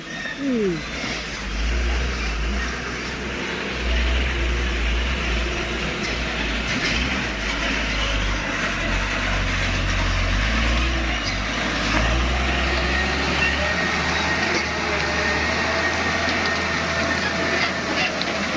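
Heavy diesel truck engines running hard under load with a deep, continuous rumble, as one truck tows the other out of mud.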